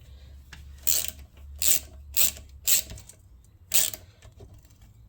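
Ratchet wrench clicking in five short strokes, the pawl ratcheting back between turns while bolts are worked on a small Honda GX110 engine.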